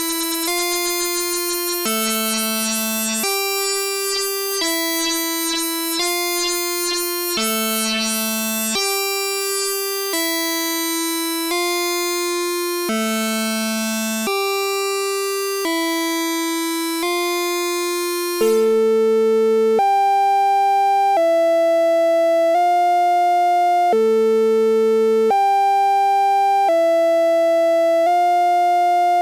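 Arturia Brute-series analog synthesizer playing a step sequence of sustained notes, a new note roughly every second and a half. About eighteen seconds in the tone changes suddenly: the bright, buzzy top drops away, it gets louder, and a low steady hum sits underneath.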